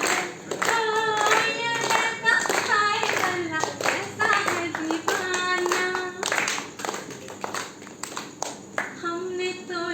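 A group of people singing together while clapping their hands along with the song.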